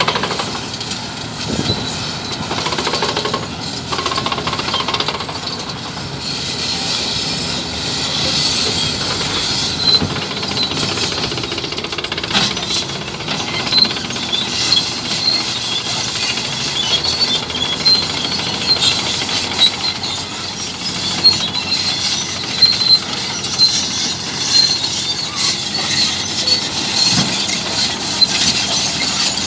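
Bulldozer working: its diesel engine runs under a constant clanking and rattling of its steel tracks, with a high squeal that comes and goes.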